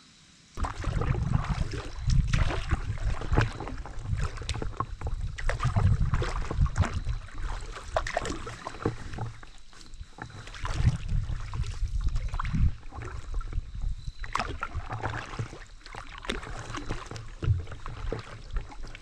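Paddling on a river: water splashing and sloshing around the paddle and hull, with irregular knocks and a low rumble close to the microphone. It starts suddenly about half a second in.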